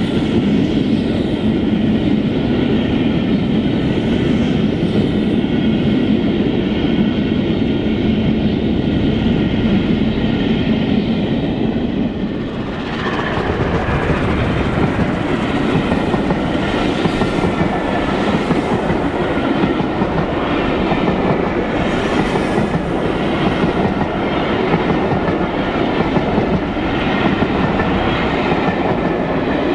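Passenger coaches of a steam-hauled train running past at speed: a steady rumble of wheels on rail, with clickety-clack over the rail joints. The sound briefly dips and changes about twelve seconds in, then carries on with fainter regular knocks.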